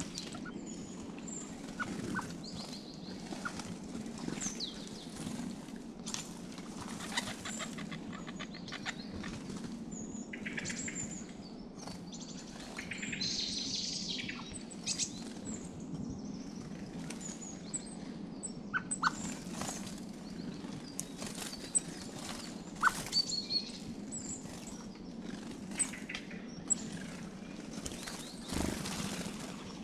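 Small songbirds chirping and calling, with several sharp clicks and wing flutters among the calls. A steady low hum runs underneath.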